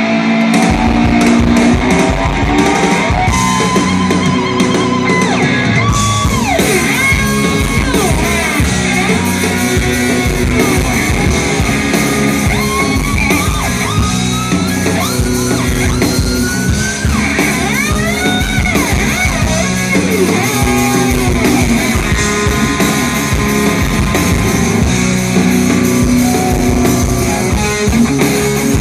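Live rock band playing an instrumental intro: electric slide guitar gliding and swooping up and down in pitch over a steady bass and drum beat.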